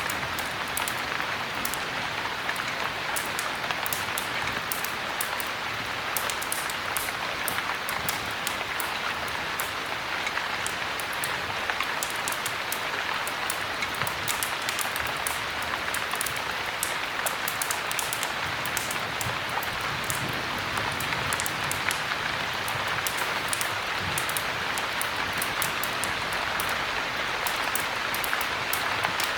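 Heavy rain falling steadily, a constant hiss sprinkled with many small sharp drop ticks.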